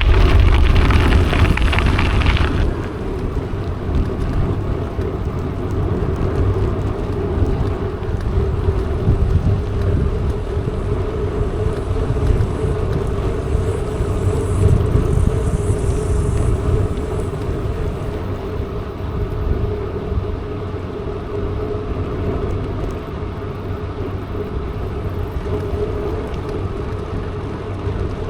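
Wind rushing over the microphone with the rolling noise of a mountain bike on the move. It is louder and harsher for the first two seconds or so, then settles into a steady rush with a constant low hum.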